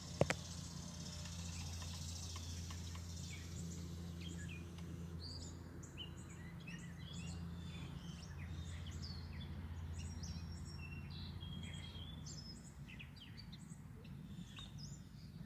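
Several songbirds chirping and twittering, with many short high calls and whistles from about three seconds in, over a steady low hum. A single sharp click right at the start is the loudest sound.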